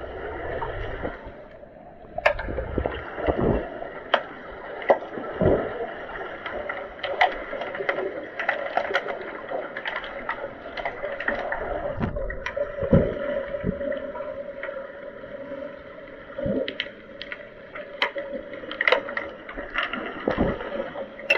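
Pool water during an underwater hockey game: sloshing and gurgling, with many sharp clicks and knocks scattered throughout and a few dull thumps. A steady hum comes in about halfway through.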